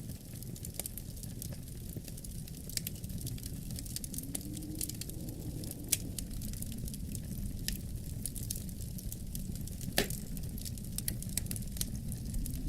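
Wood fire crackling with irregular small pops and one sharper crack about ten seconds in, over a low, steady rumble of wind.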